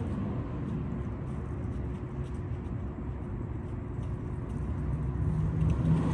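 Steady low motor-vehicle rumble with a faint constant hum.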